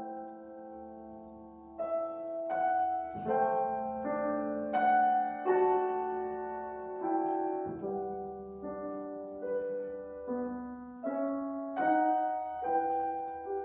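Solo piano playing a slow, quiet classical piece, with new notes and chords struck about once a second and left to ring.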